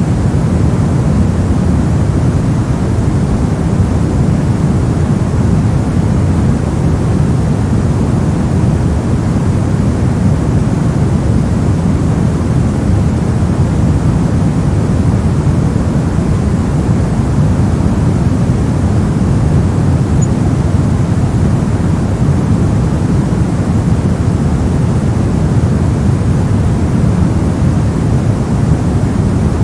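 Steady, unchanging synthesized white noise, weighted toward the low end so it sounds like an even, deep rush.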